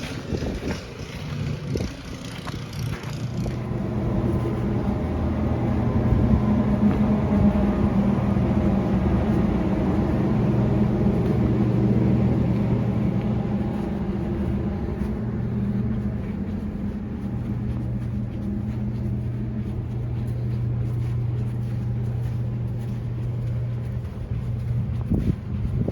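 A motor vehicle engine running at a steady low pitch, growing louder over the first few seconds and then holding steady. In the first three seconds there is also wind noise.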